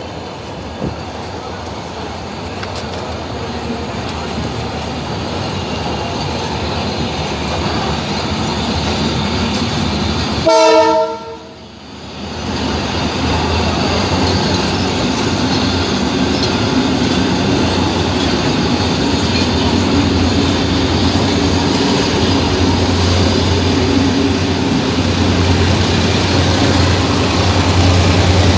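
Train running through a station: a rumble that builds steadily, a short horn blast about ten seconds in, then a steady low hum growing louder.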